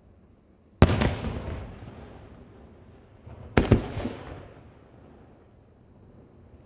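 Two aerial firework shells bursting, about a second in and again about three and a half seconds in. Each sharp bang trails off in a long rolling echo, and the second is a quick cluster of several reports.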